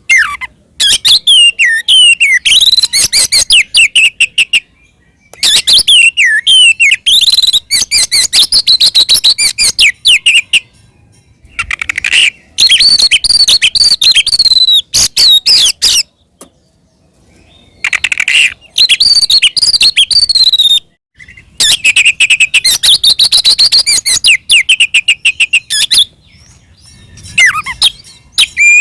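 Oriental magpie-robin singing loudly in its aggressive fighting song: runs of rapid whistles, sweeping notes and harsh chattering trills, broken by short pauses every few seconds.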